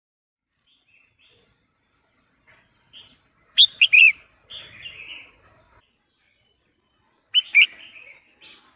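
Female red-whiskered bulbul calling: two loud bursts of quick, sharp notes, about three and a half and seven seconds in, with softer chattering between them.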